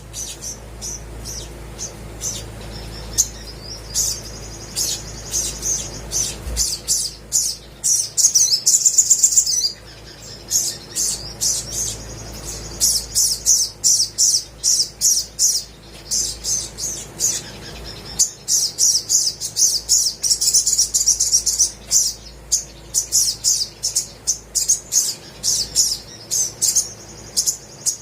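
Olive-backed sunbird singing: fast runs of short, high-pitched chirps and trills, broken by a few brief pauses.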